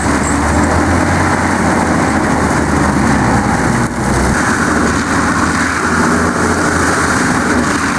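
Heavy machine engine running steadily at a loud, even level, a constant low hum under a broad wash of mechanical noise.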